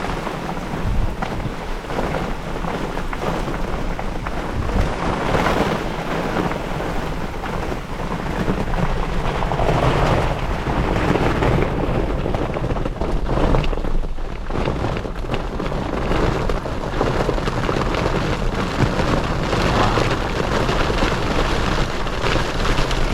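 Heavy thunderstorm rain pelting a vehicle's roof and windows, heard from inside the cabin, swelling and easing in gusts.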